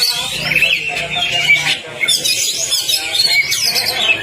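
Oriental magpie-robin (kacer) singing fast: a dense run of rapid whistles, chirps and harsh squawky notes with quick pitch glides, in the fired-up ngobra style used as a trigger song for a kacer that has stopped singing.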